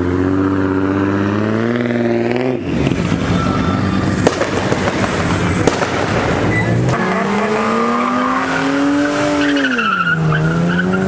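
Car engine revving hard, its pitch climbing for about two and a half seconds and then cutting off suddenly. A noisy stretch with two sharp pops follows, then the engine again, rising, dropping briefly near the end and climbing once more, with tyre squeal.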